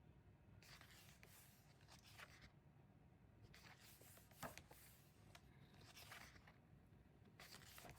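Near silence, with faint rustling of paper as photo-book pages are handled and a soft click about four and a half seconds in.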